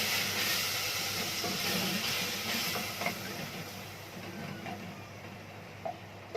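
Chopped tomatoes tipped into hot oil and fried onions, sizzling loudly at first, then dying down as the pan cools.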